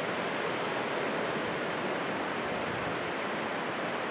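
Storm wind, gusting to 45–50 mph, howling through trees as a steady rushing noise that sounds like a rocket going off.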